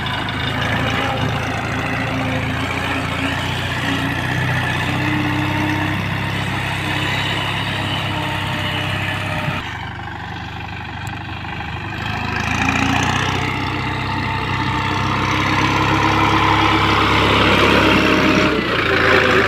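Captain 280 DX mini tractor's diesel engine running steadily, easing off briefly about ten seconds in and then picking up again.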